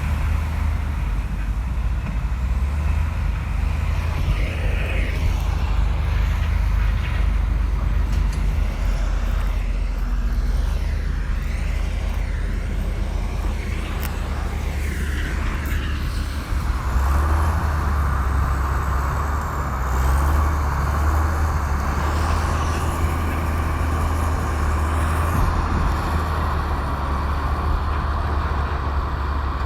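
Komatsu bulldozer's diesel engine running steadily under load, a continuous low drone. About halfway through, a steady higher whine joins it.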